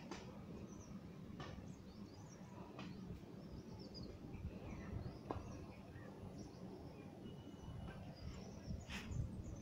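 Small birds chirping now and then in short high calls over a steady low rumble on the microphone, with one sharp click near the end.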